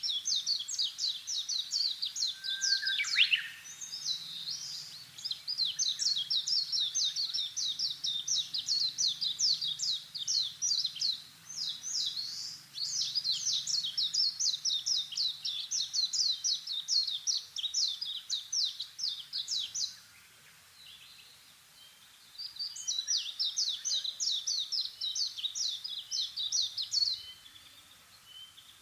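Bird chirping in long runs of rapid, high, sharp notes, several a second, with one falling note early on. The chirping breaks off for a couple of seconds about two-thirds of the way through, then resumes.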